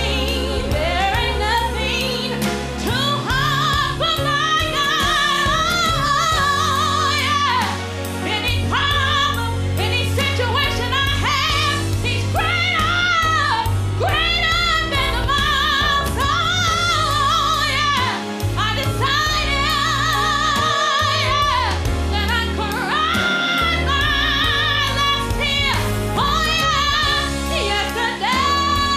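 Gospel song: a lead singer holds long notes with heavy vibrato over a band with a steady bass line.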